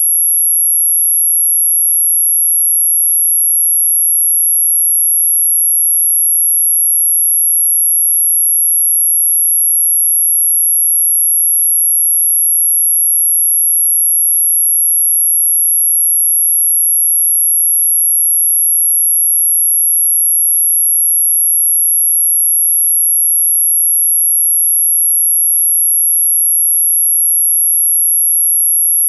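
A single steady, very high-pitched pure tone of about 11 kHz, held unchanged: an electronically generated 'anti-mosquito' repellent tone.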